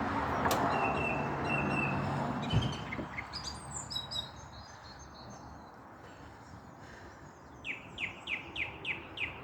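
Several small songbirds singing and chirping in short repeated phrases over a rushing background noise that dies down after about three seconds. Near the end one bird gives a quick run of about eight short notes, each sliding downward.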